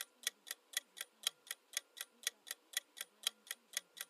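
Countdown timer sound effect: a clock ticking steadily, about four ticks a second.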